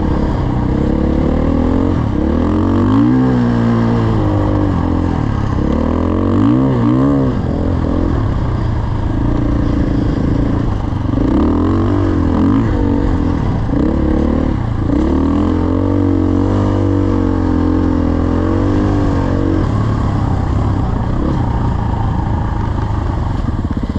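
Dirt bike engine running under way, its pitch rising and falling every few seconds as the throttle is opened and eased off.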